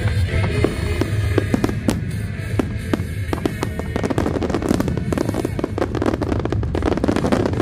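Fireworks display, with aerial shells bursting and crackling in quick succession and getting denser about halfway through, over music playing underneath.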